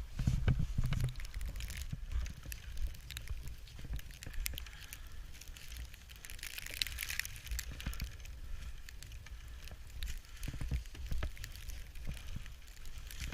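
Snow crunching and scraping, with irregular crackles and a longer hissing scrape about six seconds in, over wind buffeting the microphone.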